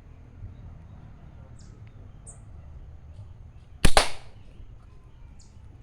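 A single slingshot shot: a sharp double snap of the released rubber bands about four seconds in, with a brief tail.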